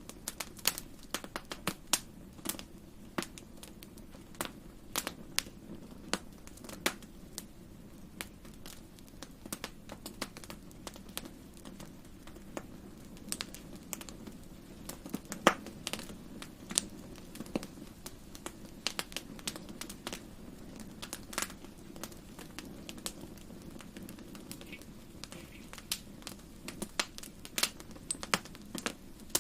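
Wood fire in a fireplace crackling: irregular sharp pops and snaps, a few louder than the rest, over a low steady hum.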